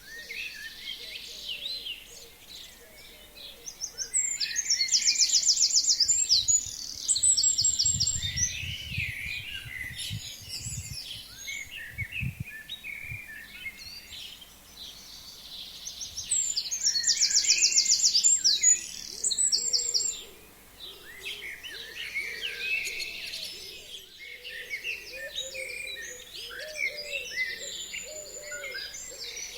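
Forest birds singing in chorus. One bird close by sings a loud phrase twice, about twelve seconds apart: a fast, even trill ending in a short flourish. A few low rumbles come about a third of the way in.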